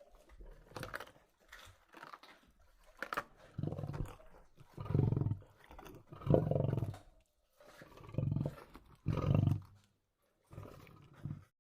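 Lion roaring: a run of short, deep calls, each under a second and about one to two seconds apart, the loudest about six seconds in.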